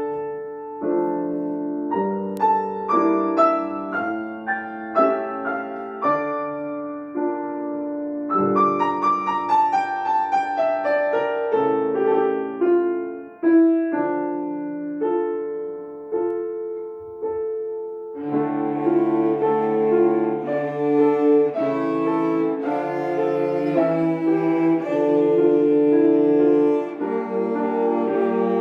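Three cellos playing a classical piece with piano accompaniment. The piano plays alone at first, and the cellos' sustained bowed notes come in about two-thirds of the way through.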